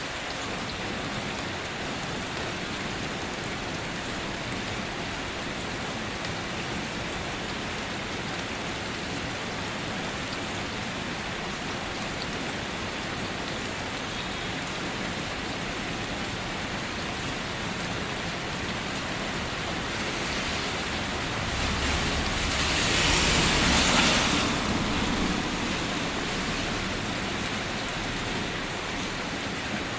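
Steady rain falling. About two-thirds of the way through, a louder rushing swell with a deep rumble under it builds for a few seconds, peaks and dies away.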